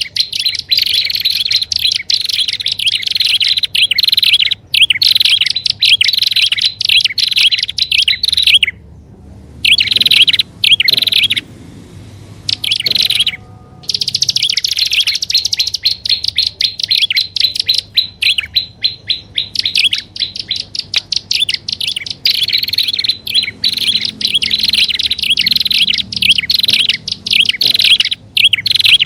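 Prinias (prenjak) calling in a bird-lure recording: fast, unbroken trains of high, sharp chirps. The calling stops briefly about nine seconds in and again about thirteen seconds in, then resumes.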